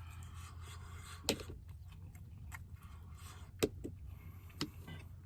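Cutlery clicking against a plate while eating, three sharp clicks spread over a few seconds amid faint clatter, over a steady low hum.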